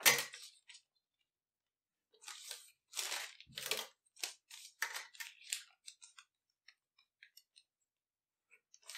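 Leather and newspaper being handled and marked with a marker on a table: a run of short scratchy, rustling strokes from about two to six seconds in, then a few faint ticks.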